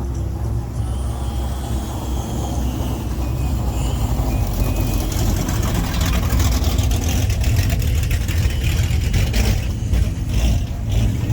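Car engine running at low speed with a steady low rumble, growing louder about halfway through as the car rolls closer, with light crunching near the end.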